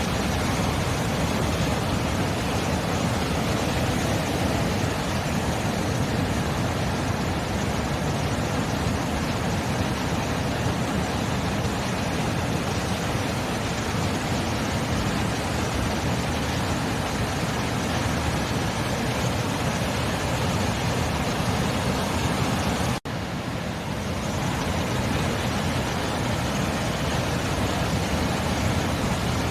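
Sea surf: a steady, even rushing of waves with no separate breaks standing out. It cuts out for an instant about 23 seconds in, then comes back a little quieter and builds up again.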